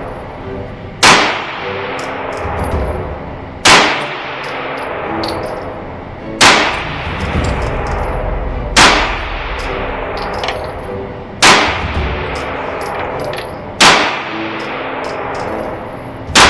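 Slow, evenly paced pistol fire from a 9mm Sig Sauer P365XL: single sharp shots with a ringing echo, one roughly every two and a half seconds, seven in all with the last right at the end.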